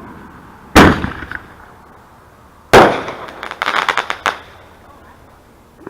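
Consumer fireworks going off: two loud bangs about two seconds apart, then a quick string of smaller crackling pops about a second later.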